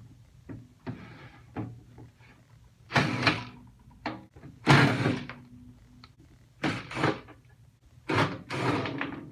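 An impact drill backing out the screws of a microwave's steel casing in four short bursts, with small clicks of handling between them.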